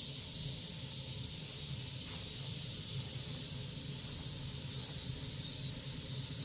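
Cicadas calling in a steady, unbroken high buzzing chorus.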